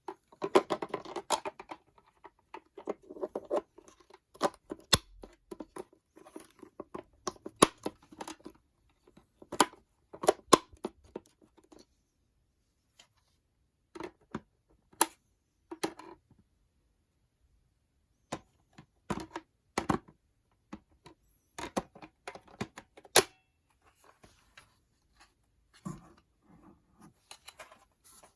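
Handling noises: many sharp clicks and knocks with short bursts of rustling, coming in scattered clusters with pauses between them, as of plastic parts and packaging being handled by hand.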